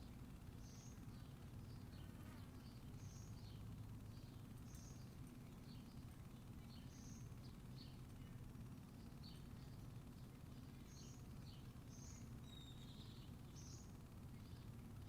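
Faint bird chirps, short high notes repeating every second or so, over a steady low background hum.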